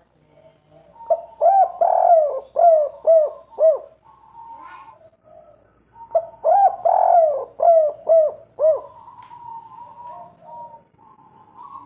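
Spotted dove (derkuku) cooing in two loud phrases, each a run of quick arching coo notes, about five seconds apart. Softer drawn-out calls follow each phrase.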